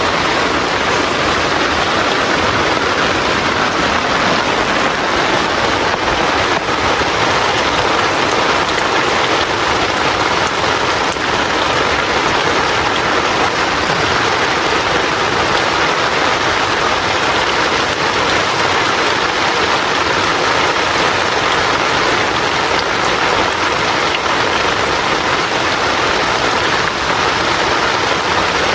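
Heavy rain falling in a steady downpour, a dense, even patter that does not let up.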